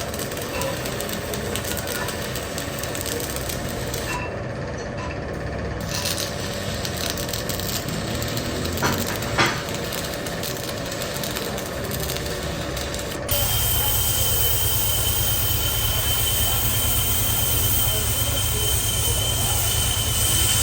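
Workshop machinery running steadily, with two short knocks a little after nine seconds; about thirteen seconds in, the sound changes suddenly to a louder steady hum with a high whine.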